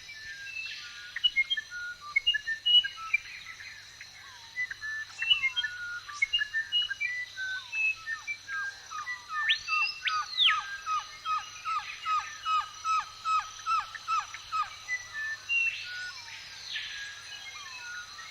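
Several birds singing together in woodland: many short chirps and whistles, with a rapid run of repeated falling notes about halfway through and a few long arching whistled sweeps.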